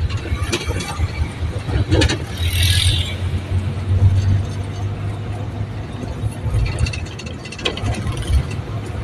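Vehicle driving along a road: a steady low engine and road rumble, with a brief hiss about two and a half seconds in.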